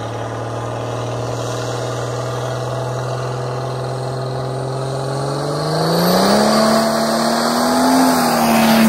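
The OM603 straight-six turbodiesel of a 1986 Mercedes-Benz 300D, fitted with a Holset HE351 turbo, running hard as the car accelerates toward and past. The steady drone climbs in pitch about six seconds in, is loudest near the end, and drops in pitch as the car goes by.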